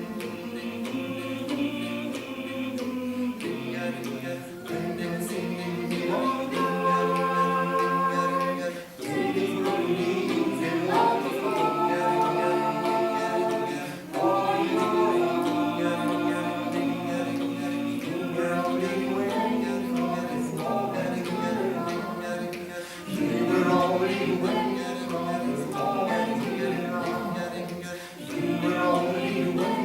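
Vocal ensemble singing a cappella in several-part harmony, with held chords and no instruments. The singing breaks briefly about 9, 14 and 23 seconds in.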